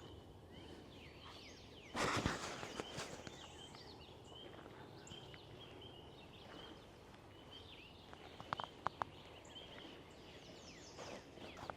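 Faint woodland birdsong: several small songbirds chirping and trilling high and thin throughout, with a brief loud rustle about two seconds in and a few sharp little clicks near the end.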